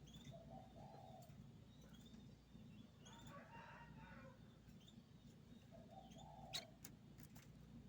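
Faint bird calls over a low steady hum: two short low calls, about a second in and again near the end, with a sharp click shortly before the end.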